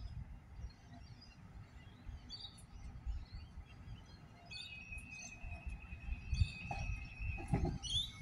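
Small birds chirping on and off over a low background rumble, with a thin steady high tone coming in about halfway and stopping near the end.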